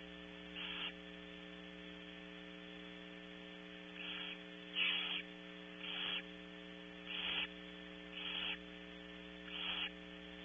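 Barn owls in a nest box giving short, raspy hissing calls, seven in all: one near the start, then roughly one a second through the second half. A steady electrical hum from the nest camera runs underneath.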